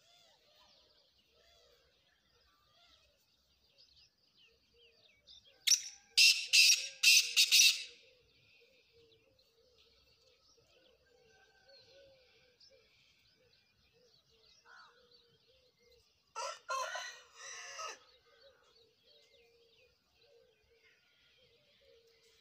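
Black francolin calling: a loud run of short notes lasting about two seconds, about six seconds in, then a second, quieter run about ten seconds later. Faint chirping of small birds continues throughout.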